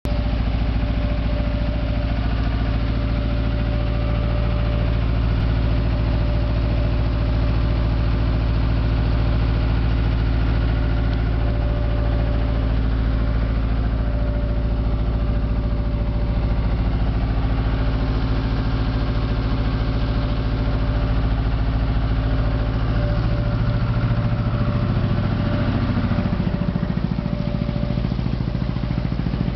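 Small ferry boat's engine putting steadily with a rapid 'tot-tot-tot' beat. Its note shifts from about 23 to 27 seconds in as the engine speed changes, then settles again.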